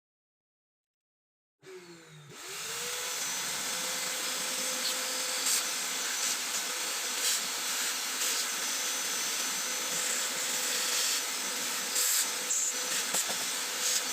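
Sanyo M9802AK radio cassette receiver cutting in after silence with loud static hiss. A short gliding whistle settles into a steady whistle tone, with a few crackles over the continuous hiss, as if tuned between stations.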